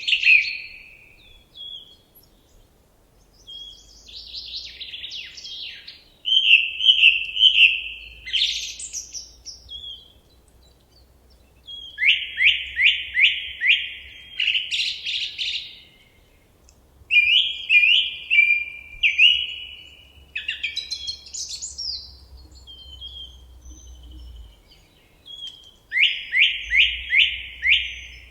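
A songbird singing in varied phrases with short pauses between them. Some phrases are quick runs of five or six down-slurred notes, and others are warbles and trills.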